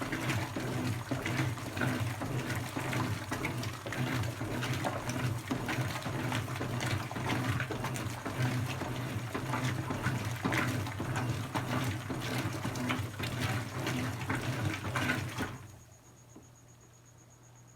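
Brastemp BWK17 17 kg washing machine running with rushing, splashing water over a steady low hum. The sound cuts off suddenly about fifteen seconds in, leaving only a faint high whine.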